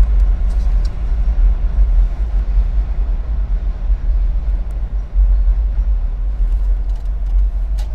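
Steady low rumble in a car's cabin, with a few faint clicks, one just before the end.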